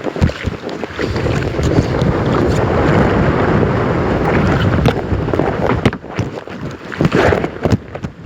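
Strong wind buffeting the microphone during kayaking on open water, a dense rumble that holds for several seconds and eases about six seconds in, with short splashes and knocks from water and the kayak.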